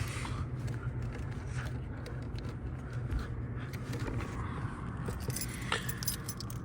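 Light clicks and small metallic and plastic rattles as a relay is handled and pushed into a car's relay panel, over a steady low hum. A sharper click comes near the end.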